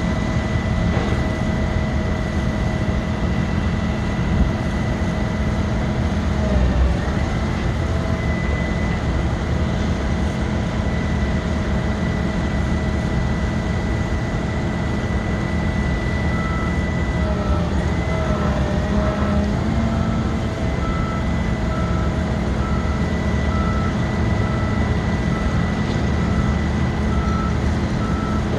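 Ford F-750 bucket truck running at a steady speed while it powers the Altec aerial boom, with a steady whine over the engine rumble. The whine dips briefly in pitch twice, about 7 seconds in and again around 18 seconds. From just past the middle, a short warning beep repeats about once a second.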